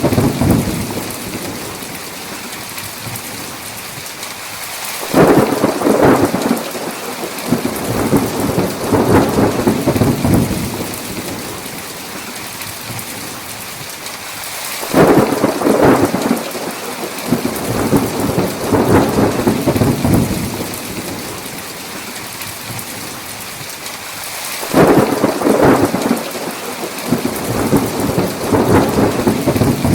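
Steady heavy rain hissing, with long rolls of thunder breaking in three times, about ten seconds apart, each rumbling on for several seconds.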